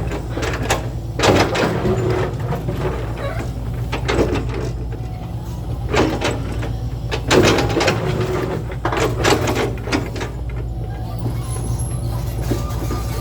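A steady low machine hum with clattering knocks and scrapes coming in clusters every second or two.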